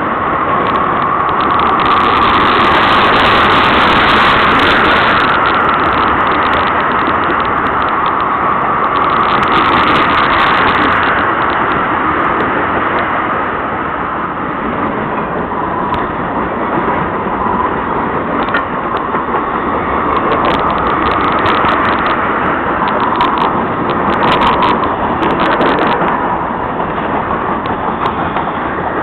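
Freight train cars rolling past: a steady loud rumble and hiss of steel wheels on rail, with scattered clicks and clatter from the wheels.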